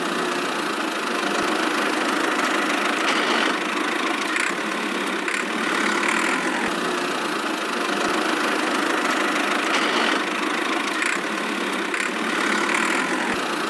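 A small motor running steadily, a continuous even mechanical noise with no deep rumble.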